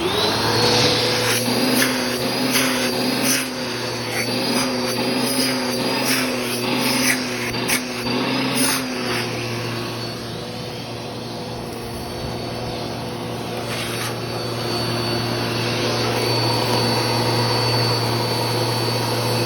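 Bissell PowerForce Helix Turbo Rewind Pet upright vacuum (model 1797) switched on and running with its hose off for a suction test. Its motor whine rises as it spins up, then wavers with a few knocks for about the first nine seconds before holding steady.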